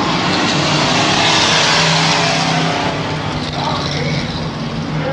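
Stock trucks racing on a dirt track, their engines at full throttle as they pass close by, loudest about one to two seconds in and then fading a little.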